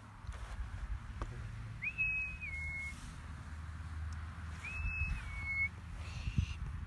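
Two whistled recall calls, each rising onto a held note that steps down at the end, about three seconds apart, used to call a flown barn owl back to the handler.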